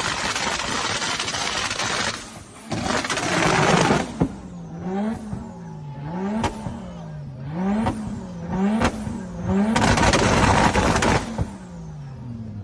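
Car engine revved over and over, its pitch rising and falling about once a second, with a few sharp pops. In between come stretches of loud rushing noise.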